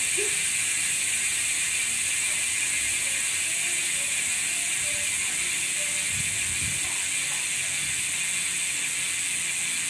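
ARC MT-039 alloy mountain bike rear hub freewheeling, its freehub pawls ratcheting so fast that the clicks merge into a steady buzz.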